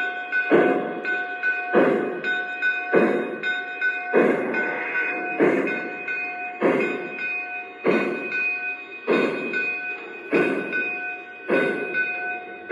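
O scale model steam locomotive's onboard sound system chuffing slowly and evenly, about one chuff a little over a second apart, with a steady high-pitched tone underneath.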